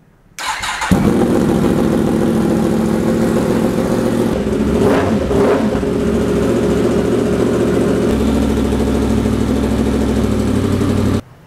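Yamaha MT-10's crossplane inline-four engine, fitted with an Austin Racing slip-on exhaust, starting up and running at a steady idle. It rises briefly twice about five seconds in and stops abruptly near the end.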